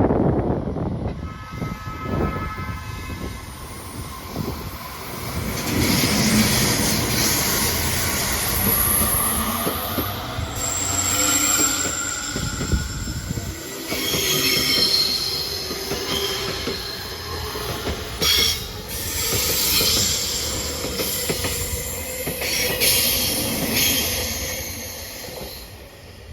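A train running on rails, with high-pitched metallic wheel squeal over the rumble of the wheels. The sound starts abruptly and loud, and eases off near the end.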